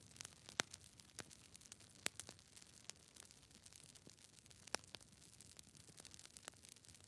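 Faint crackling: irregular sharp clicks and pops, a few to several a second, over a low steady hiss.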